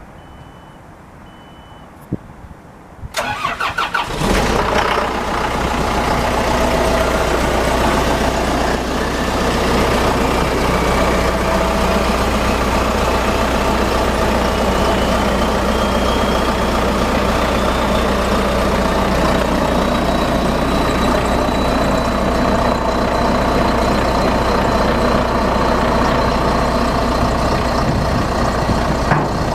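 2010 John Deere 310SJ backhoe: two short warning beeps at key-on, then the starter cranks the four-cylinder diesel briefly before it catches about four seconds in. It then runs steadily at idle, with a high whine that slowly rises in pitch and then holds steady.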